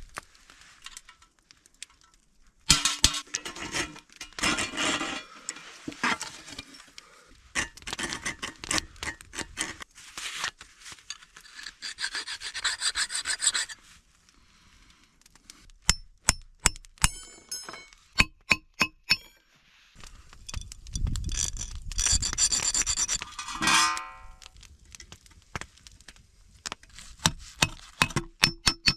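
Hot steel rod being worked by hand, with metal scraping and rubbing in stretches. About halfway through comes a quick run of sharp, ringing metal taps.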